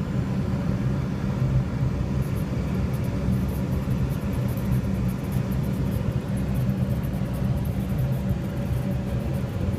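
Steady low rumble of an Airbus A380 cockpit on final approach, reproduced by a flight simulator, with a faint steady hum running through it.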